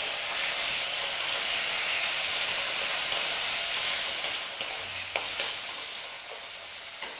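Chopped tomatoes sizzling in hot oil in a metal kadhai, stirred with a spatula that clicks and scrapes against the pan several times in the middle. The sizzle eases off in the second half.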